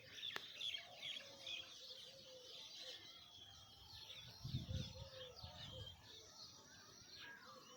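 Many small birds chirping and twittering, faintly, with a brief low rumble about halfway through.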